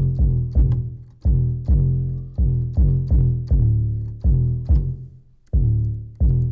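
Software bass instrument playing a bass line on its own: a run of short plucked notes, each dying away, with a brief pause about five seconds in.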